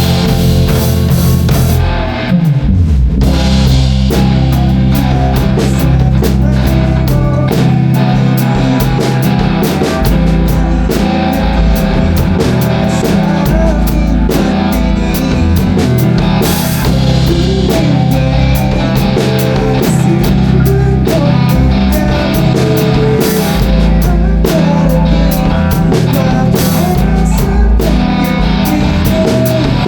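Rock song played by a band on guitars and drum kit, with a brief drop in loudness about two seconds in.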